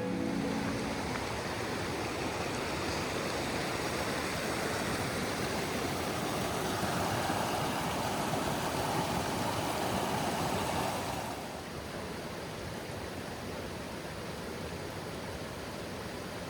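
Steady rushing noise with no pitch, spread evenly from low to high, stepping down a little in level about eleven seconds in.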